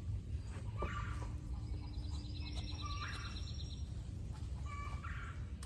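Birds calling: several short chirping calls and, about two seconds in, a rapid high trill lasting a couple of seconds, over a steady low rumble.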